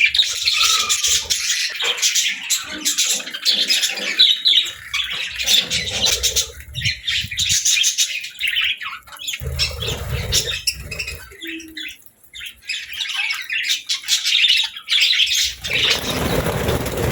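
Several budgerigars chirping and chattering continuously in quick warbling calls, with a few soft low thuds partway through and near the end.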